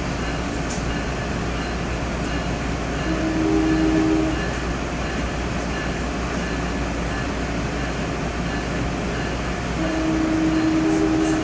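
NJ Transit commuter train running, a steady rumble heard from inside the passenger car, with the train's horn sounding twice, each blast about a second and a half long, about six seconds apart.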